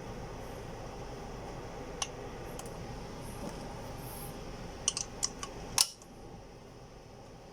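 Sharp metallic clicks from hand tools working the engine's head bolts over a steady low hum: one about two seconds in, a quick run of four near five seconds, and the loudest near six seconds, after which the hum drops.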